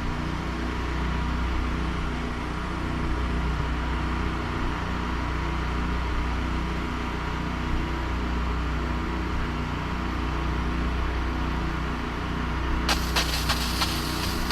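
Small gas engine of a pressure-washing rig running steadily at constant speed. About thirteen seconds in, a loud crackly hiss of spray striking a surface starts on top of it.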